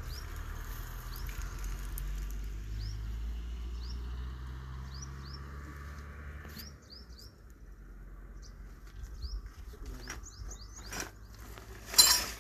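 Small birds chirping, many short rising chirps repeated at uneven intervals, over a low steady rumble that stops about two-thirds of the way through. A few clicks follow, and one short loud noise comes near the end.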